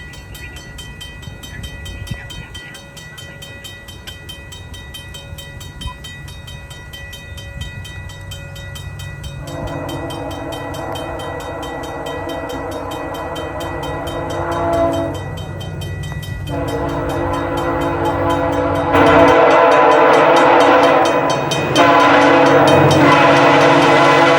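A Nathan K1L13 air horn on a VIA Rail EMD F40PH-2D locomotive sounding long blasts for the level crossing. The horn starts about ten seconds in, pauses briefly twice and grows louder as the train nears. Before the horn starts, the crossing's mechanical bell rings steadily under the low rumble of the approaching train.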